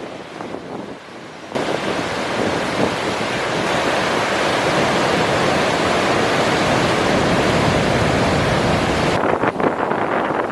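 Athirappilly waterfall's water rushing as a dense, steady noise. It cuts in abruptly about a second and a half in and drops away sharply near the end, with a quieter wash of outdoor noise either side.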